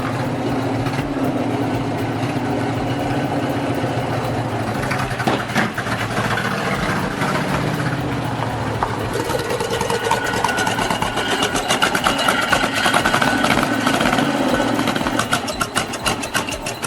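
Tatra 603's 2.5-litre V8 engine running with a deep tone, steady at first, then busier and louder from about halfway in.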